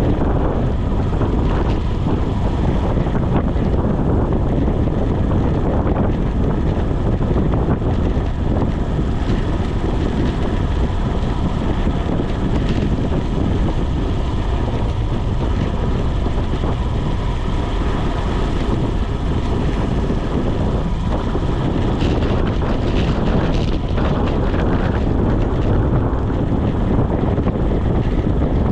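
Steady, loud wind rushing over the microphone of a bicycle moving at speed on a wet mountain road.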